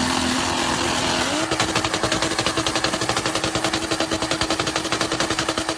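Car engine revved hard and held against the rev limiter: a high, steady engine note steps up slightly about a second and a half in, then stutters rapidly, about ten cuts a second, as the limiter cuts the ignition.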